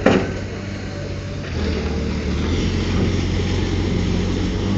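Diesel engine of heavy earthmoving equipment running steadily, with a sharp metallic knock just after the start. The engine picks up slightly after about a second and a half.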